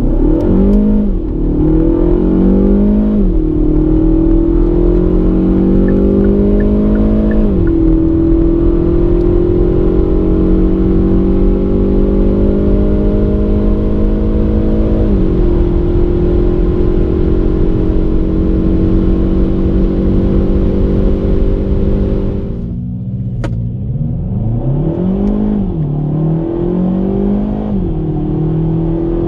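Kia ProCeed GT's 1.6-litre turbo four accelerating at full throttle. Its pitch climbs steadily and drops sharply at each quick dual-clutch upshift, four shifts in all, the gaps between them growing longer. About 22 seconds in the sound gets quieter and the engine pitch rises and falls twice more.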